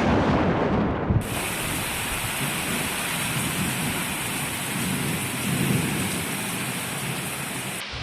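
Steady heavy rain with rolling thunder rumbling beneath it. About a second in, a brighter, hissier rain comes in abruptly, and the thunder swells again a little past the middle.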